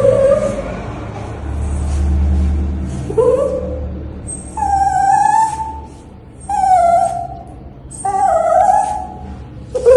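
A pet dog whining and howling during a bath: a series of drawn-out, pitched whines, each under a second, coming about every one to two seconds and getting louder in the second half. There is a low rumble in the first few seconds.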